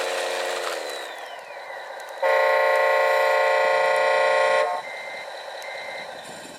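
A whining motor winds down in pitch, then a horn sounds steadily for about two and a half seconds, followed by two short high beeps. The horn is most likely an RC model truck's horn.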